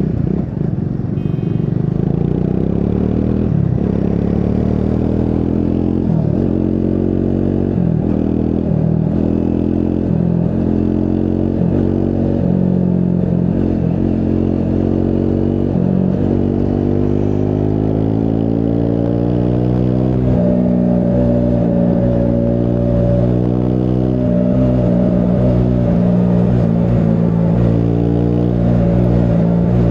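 Triumph Scrambler 400 X's single-cylinder engine running under way, its pitch climbing slowly with small dips for about twenty seconds, then holding steady at higher revs.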